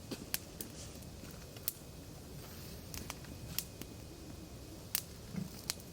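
Wood campfire crackling: sharp, irregular pops and snaps over a low steady background, the loudest pop about five seconds in.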